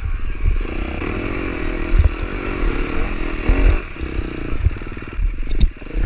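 Dirt bike engine revving up and down under heavy load as the bike struggles through rough, muddy ground, with low knocks and thumps.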